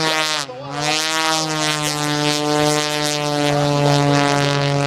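Aerobatic airplane's propeller engine running at high power during a low knife-edge pass. The engine note dips briefly about half a second in, then holds a steady pitch.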